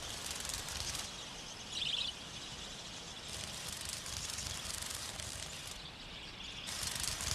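Outdoor bush ambience with a high hissing chatter that cuts in and out abruptly, and one short high-pitched bird chirp about two seconds in.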